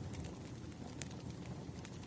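Campfire crackling: scattered sharp pops and snaps over a low, steady rumble of burning.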